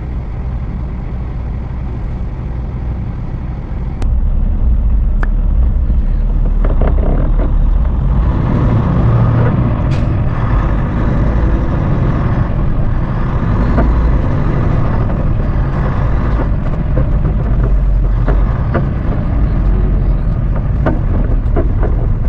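A truck's diesel engine running with road noise, steady, getting louder about four seconds in.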